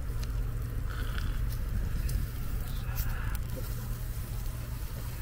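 Pork belly sizzling on a grill plate, with scattered sharp pops of spitting fat over a steady low hum.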